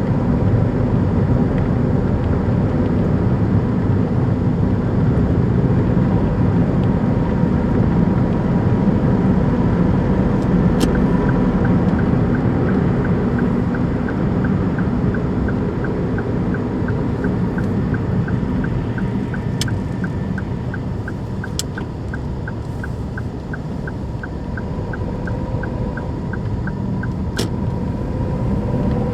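Daihatsu Move Custom L175S's 660 cc three-cylinder engine running as a steady, dense low rumble, noisy because its engine mount bushing is torn and no longer damps the engine. A light, even ticking, a bit over two a second, starts about a third of the way in and stops shortly before the end, with a few single sharp clicks.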